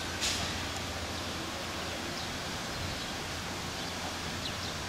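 JR E257 series electric train rolling slowly past at a distance on a yard test run, heard as a steady low rumble under even outdoor noise, with a brief hiss about a quarter second in and a few faint high chirps.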